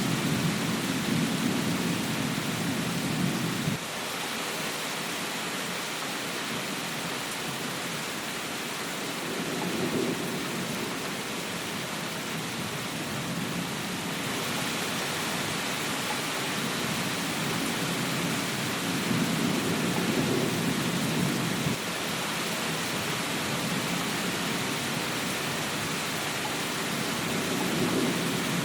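Steady rain with low thunder rumbling underneath, swelling and fading several times. Twice the rumble cuts off abruptly.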